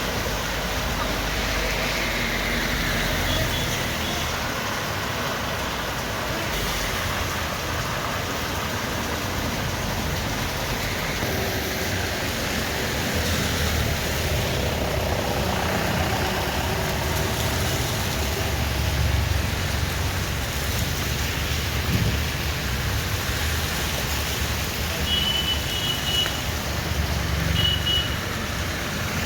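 Steady rushing noise of rain and runoff water pouring through a drain, with two short high beeps near the end.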